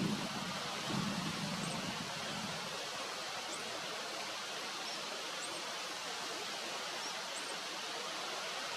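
Steady outdoor ambient hiss, with a short high chirp repeating about once a second.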